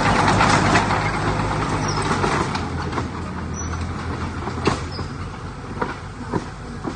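Heavy diesel earthmoving machinery running steadily, with a few sharp metallic clanks in the second half.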